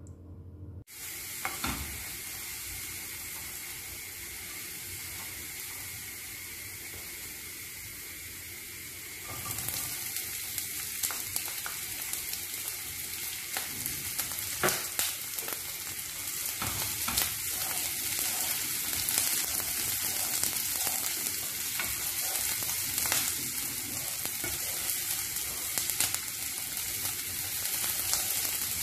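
Garlic and chopped onion sizzling in oil in a frying pan, stirred with a wooden spatula that scrapes and knocks against the pan. The sizzle starts about a second in and steps up louder about nine seconds in, as the onion goes in.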